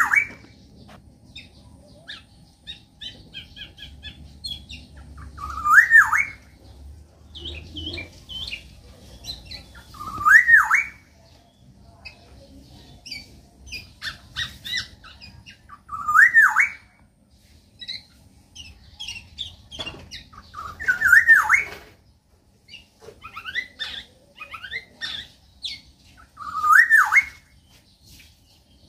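Black-naped oriole singing: a loud, fluty whistled phrase repeated about every five seconds, six times, with softer short chirps and calls of other birds in between.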